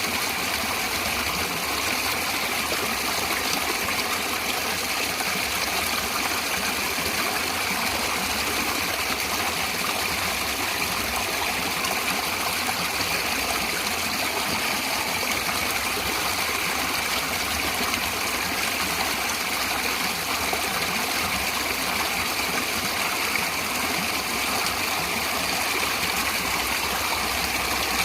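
A stream of water flowing steadily, a continuous rushing hiss with no breaks.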